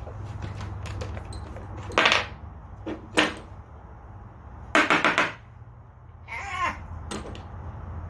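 Metal tools knocking and clanking against a chainsaw's bar nuts and housing: a sharp knock about two seconds in, two smaller ones around three seconds, and a quick run of ringing metal hits near five seconds, over a steady low hum.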